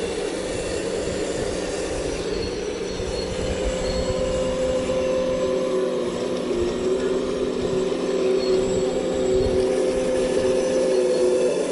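Heavy diesel earthmoving machine running under work, its engine and hydraulics giving a steady whine of several held tones that grows a little louder in the second half.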